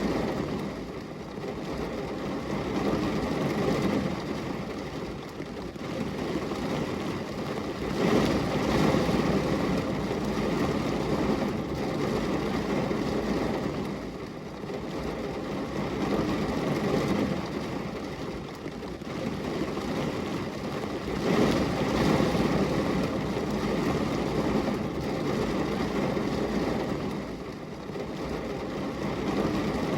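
Steady rain, a deep, even rushing noise that swells and eases every few seconds.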